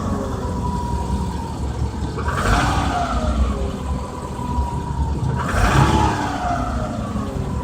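Car engine treated with X-1R oil additive, revved twice about three seconds apart, the revs falling back toward idle after each blip.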